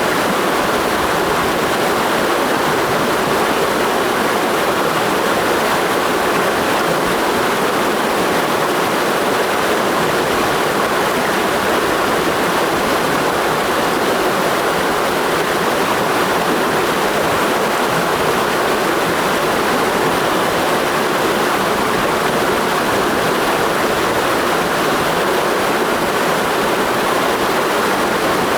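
Mountain stream rushing steadily over rocks: a continuous, even roar of flowing water.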